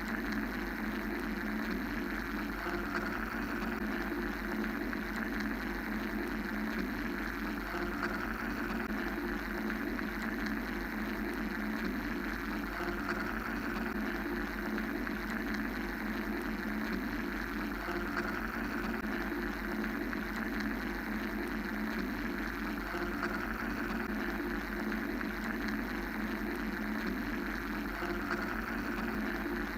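Steady mechanical-sounding white noise: a low hum-like rumble under a hiss, with the upper hiss gently swelling and fading every five or six seconds.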